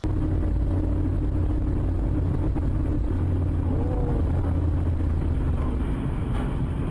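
Steady rumble of a moving car's engine and road noise, with a brief faint whine about four seconds in.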